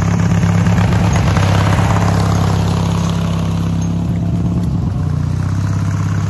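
Garden tractor engine running steadily at a constant speed while the tractor works a dethatcher over wood chips on the lawn.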